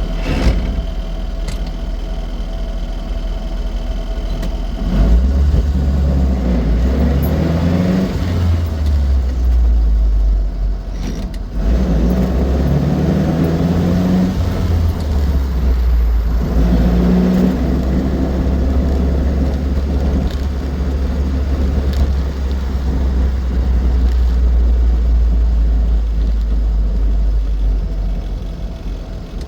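Austin 7 Ruby's small four-cylinder side-valve engine driving the car along, its note rising as it picks up speed, easing and rising again a few times, with a sharp click about half a second in.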